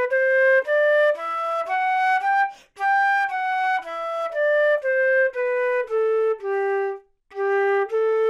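Recorder playing a simple melody of single held notes, about two a second, in three phrases with short breaks about two and a half and seven seconds in.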